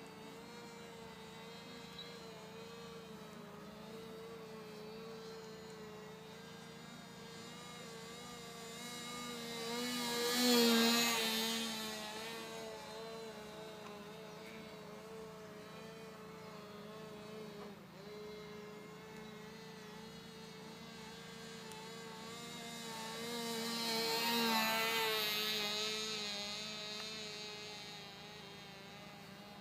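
Thunder Tiger .07 glow two-stroke engine of a small RC model plane in flight, a steady high buzz that swells loud twice as the plane passes close, about ten seconds in and again near twenty-five seconds. The flyer says the engine is acting up and doesn't like how it sounds.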